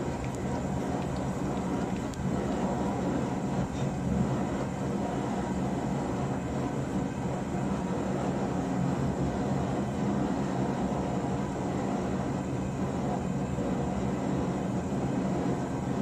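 A workshop machine running steadily, a constant rushing noise over a low hum.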